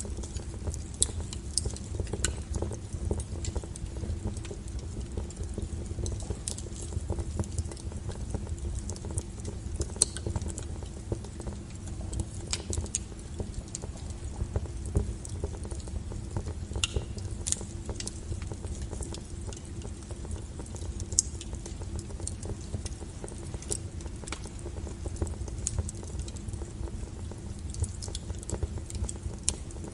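Wood fire burning, with frequent sharp crackles and pops over a low, steady rumble.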